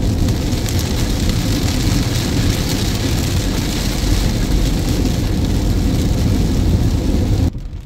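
Steady, loud noise of a car driving in rain, heard from inside the cabin: road and rain noise together. It cuts off suddenly near the end.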